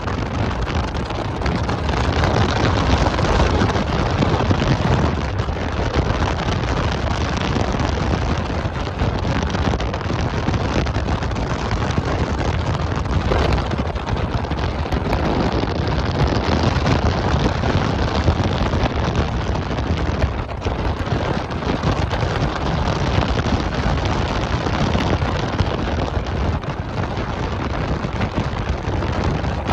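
Wind buffeting the microphone on a moving motorcycle: a loud, steady rumbling rush of noise with no clear engine note.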